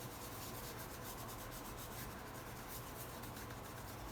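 Paintbrush rubbing paint across the painting surface in soft, quick repeated strokes while the background is blended smooth, over a faint low room hum.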